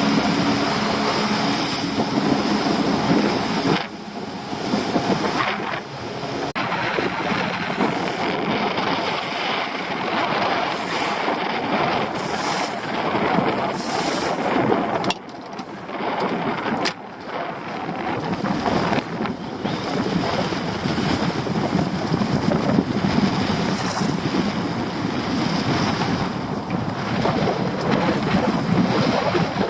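Wind buffeting the microphone over the sound of choppy sea water against a small boat, with brief lulls.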